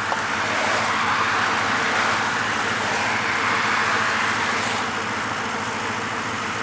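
Road vehicle running with steady engine tones and a hiss of road noise that swells in the middle and then eases off.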